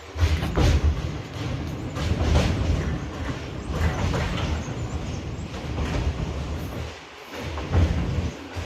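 Indian Railways passenger train running, heard from on board, with a heavy low rumble that jumps up suddenly at the start and dips briefly about seven seconds in.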